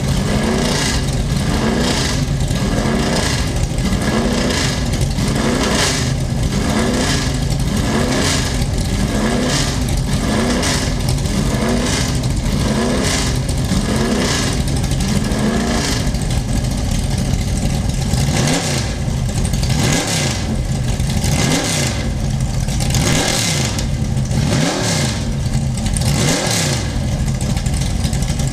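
Car engine revving over and over, its pitch climbing and dropping about once a second. After about 16 s the pattern changes to sharper, deeper rises and falls roughly every second and a half.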